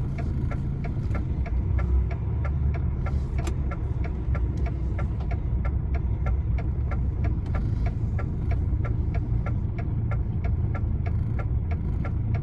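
Lorry's diesel engine running at low revs while reversing slowly on snow, heard from the cab, with a steady, even ticking a few times a second over the rumble.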